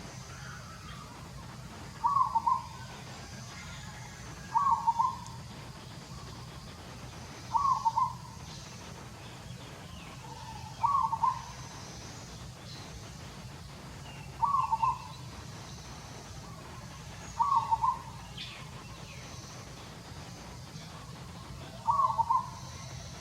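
A bird calling over and over: a short call of two or three quick notes, repeated seven times, about every three seconds, over a steady low hum.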